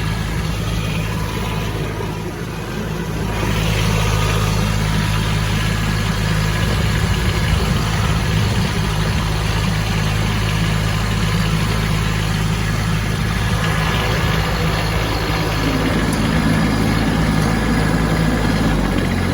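Kubota B2601 compact tractor's three-cylinder diesel engine running steadily under load in low gear, pushing snow. The level dips briefly about two seconds in, then holds steady.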